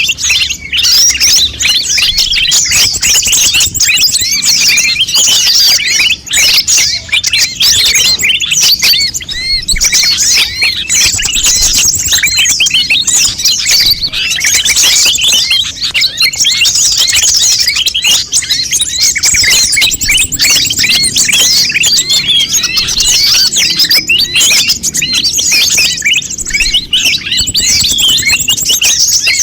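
Konin birds chirping and twittering without pause: a dense chatter of quick, up-and-down chirps.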